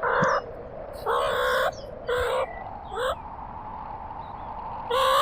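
A bird giving five harsh, raspy calls at irregular spacing, one of them longer than the rest.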